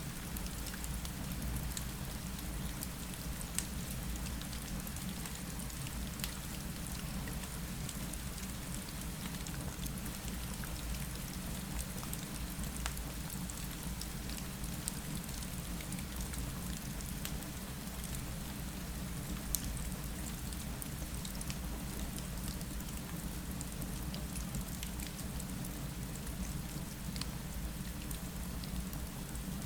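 Steady rain falling against a window, with scattered small ticks and a soft fireplace crackle mixed in.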